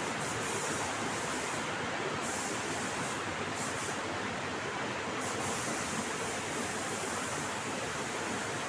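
Paint spray gun hissing in several on-off spells as its trigger is pulled and released, the longest lasting the last few seconds, over a steady rushing noise.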